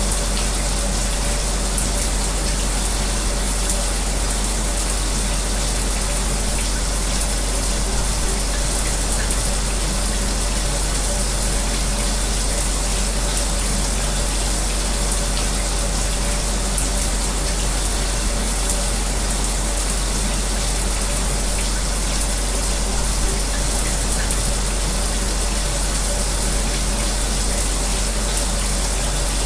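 A running shower's steady spray blended with an electric fan's whir, making a continuous white noise. A faint steady hum sits under it, and nothing changes throughout.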